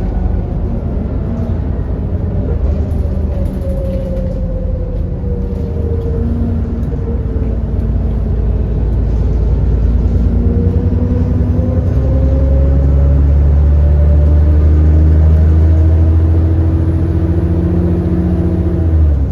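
ADL Enviro400 double-decker bus engine heard from on board. It eases off, then pulls hard with its pitch and loudness rising steadily, and the pitch drops sharply near the end as the automatic gearbox changes up. A faint rising whine sits above the engine during the pull.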